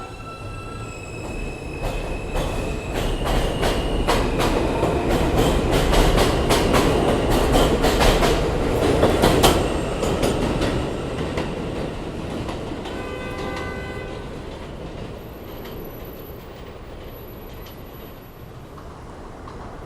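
New York City subway train running past on the BMT Jamaica Line: wheels clicking over rail joints, with a few steady whining tones. It grows louder to a peak about eight to nine seconds in, then fades away.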